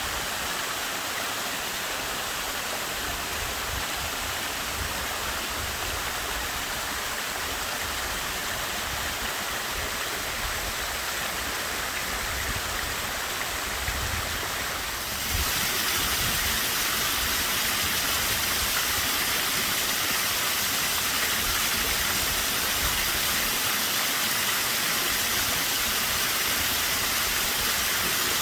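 Small waterfall at fairly low flow, water falling and splashing in a steady rush. About halfway through the sound suddenly becomes louder and brighter, then stays steady.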